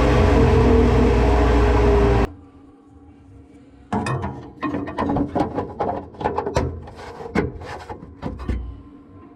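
A shop machine runs loudly and steadily, then cuts off abruptly about two seconds in. About four seconds in, a run of sharp clicks and knocks begins and lasts roughly five seconds.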